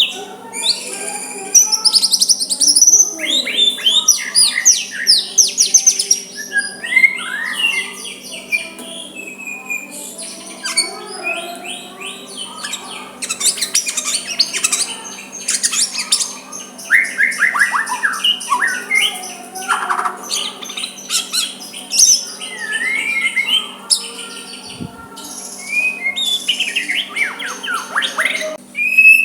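White-rumped shama singing a long, varied song of clear whistles, rapid trilled phrases and quick downward-sweeping notes, delivered in bursts with short pauses between them.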